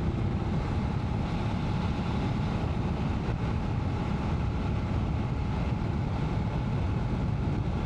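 BMW F 850 GS Adventure motorcycle's parallel-twin engine running steadily while riding along at an even speed, mixed with wind rush.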